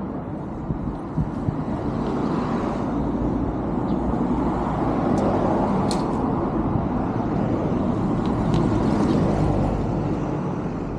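Road traffic: cars passing with a steady rush of tyre and engine noise that swells about halfway through and again near the end.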